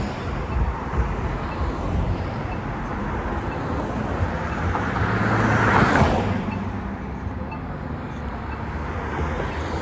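Roadside traffic: steady road rumble, with one vehicle passing close, its noise swelling to a peak a little past the middle and then fading away.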